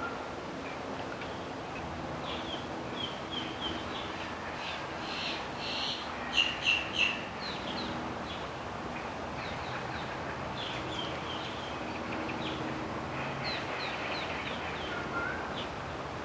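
Mixed songbird chorus of a forest: many small birds chirping in short high calls over a steady background hiss, with three louder calls in quick succession about six and a half seconds in.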